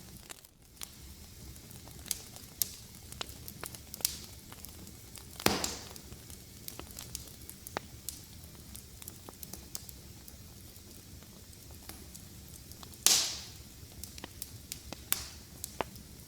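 Fire in a fireplace crackling: a steady low hiss and rumble with frequent sharp snaps. Two louder pops stand out, each with a brief hiss after it, about a third of the way in and again near the end.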